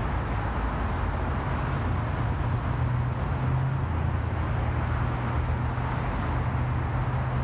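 Steady road noise of a car driving on the freeway, heard from inside the car: a low, even engine hum over tyre and road rumble.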